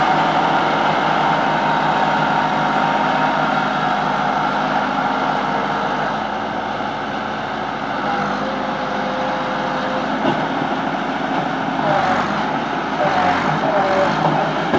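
Tractor engine running steadily. A wavering higher tone joins in over the last few seconds.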